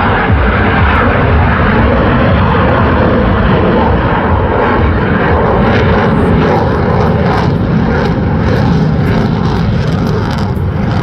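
Lockheed Martin F-35 fighter jet engine roaring loudly and steadily during a display flyby, with a crackling edge coming in about halfway and the roar easing slightly near the end.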